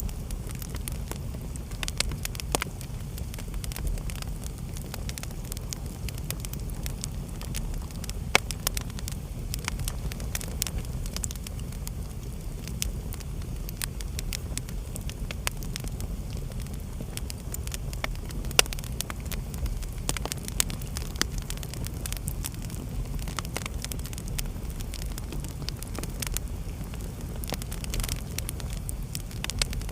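Wood fire burning in a fireplace: a steady low rumble of flames with frequent irregular crackles and sharp pops of burning logs, the loudest pops about 8 and 18 seconds in.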